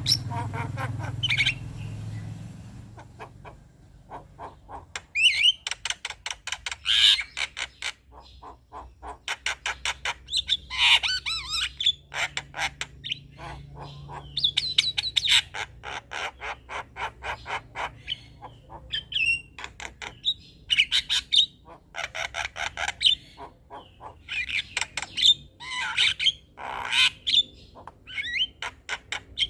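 Male Javan myna (jalak kebo) singing: repeated bouts of rapid clicking rattles mixed with harsh squawks and short whistled chirps.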